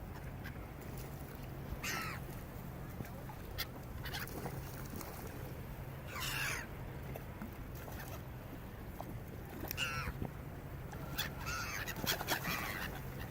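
Birds calling in short, harsh, wavering cries, about five times, one of them longer in the middle.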